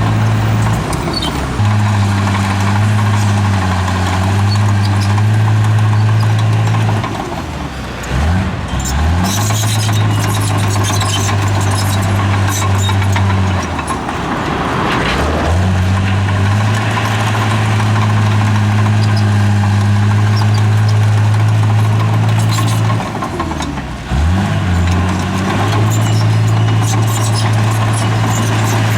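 Heavy diesel engine of a bulldozer running steadily under load. Its pitch drops and climbs back about four times as the machine changes speed. A short rush of grinding noise comes about halfway through.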